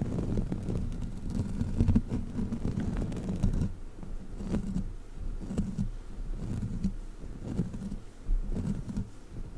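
Sticky rubber crawler toy being handled, pressed and pulled, making irregular low, muffled sticky sounds with a few faint clicks.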